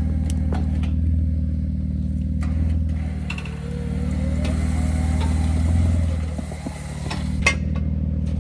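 A vehicle engine running steadily, its level easing off briefly twice, with a sharp click near the end.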